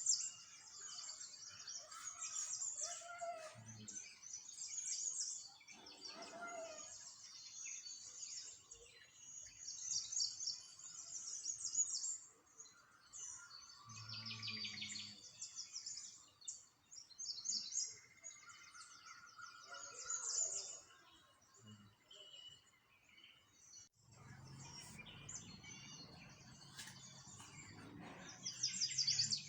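Small birds chirping and trilling in quick high bursts throughout, with a few soft low thumps and a low rumble of background noise in the last few seconds.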